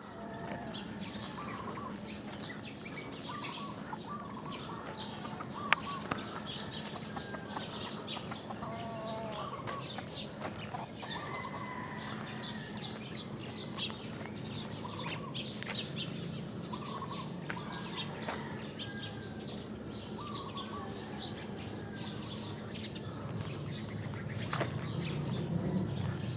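Chickens clucking with small birds chirping throughout, over a steady low hum. A single sharp click about six seconds in.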